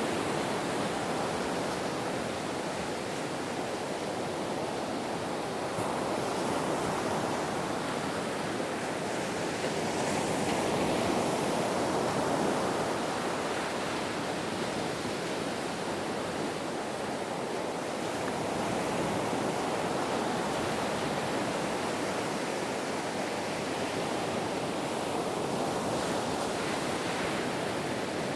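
Ocean surf: a steady rush of breaking waves that swells and eases every several seconds.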